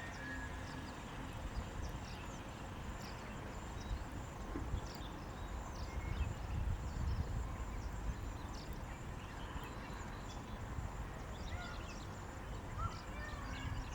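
Steady low rumble with many short, high chips scattered throughout from small birds, and a few brief whistled bird notes near the end.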